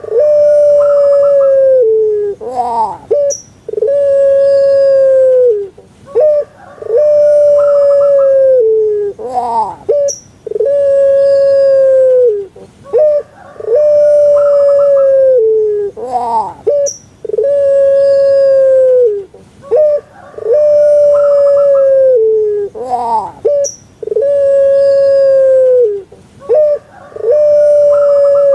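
Puter pelung, the long-voiced Javanese Barbary dove (Streptopelia risoria), cooing loudly over and over. Each call is a few short rising notes followed by a long, drawn-out coo of about two seconds that drops in pitch at the end, repeating about every three seconds.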